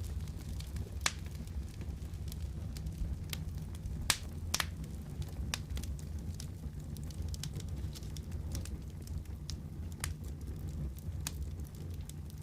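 Wood fire crackling: a steady low rumble of flames under scattered sharp pops and snaps, a few of them louder, about one, four and four and a half seconds in.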